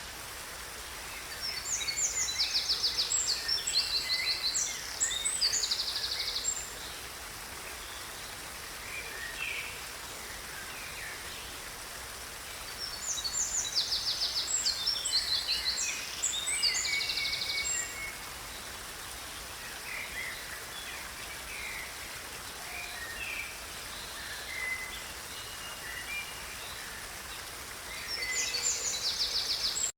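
A songbird singing long, fast songs of rapid trills and warbles, three times about twelve seconds apart, with scattered single calls between. A steady background hiss of forest ambience runs under it.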